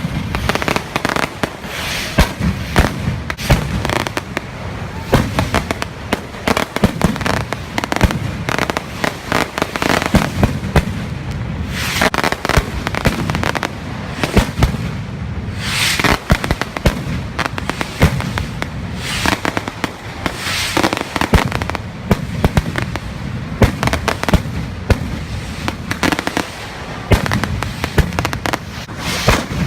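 Fireworks and firecrackers going off in a dense, continuous barrage of sharp bangs and crackling.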